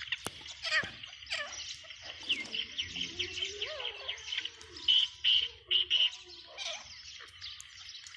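Grey francolin calling, with a run of four loud, shrill notes about five to six seconds in, over a busy chatter of chirping bird calls.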